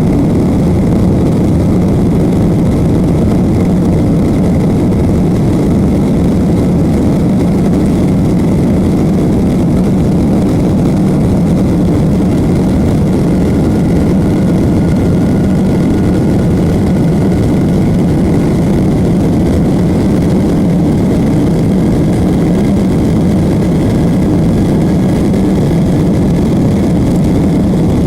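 Steady roar of jet engines and rushing air heard from inside an airliner's passenger cabin, even and unchanging, with the weight of the sound low and rumbling.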